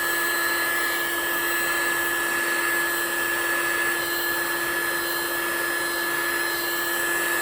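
Resiners heat gun running steadily, a hiss of blown air with a constant motor whine, pushing wet white resin into waves on a coaster.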